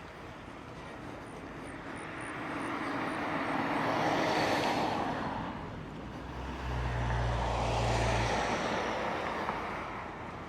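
Two vehicles passing one after the other, their road noise swelling and fading, with a low rumble during the second pass that cuts off abruptly.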